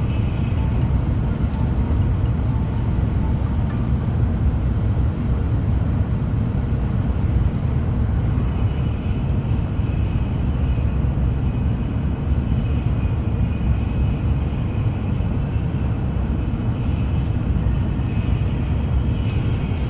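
Shinkansen bullet train running at high speed, heard inside the passenger cabin: a steady, even low rumble of the running train, with a faint high whine coming and going.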